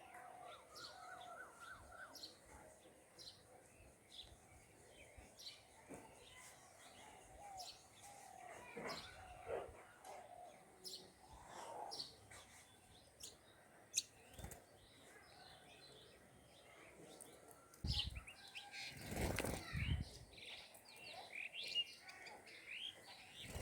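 Several small birds chirping and calling, with short, repeated notes throughout. About eighteen seconds in comes a pair of dull, low rushes of noise, louder than the birds.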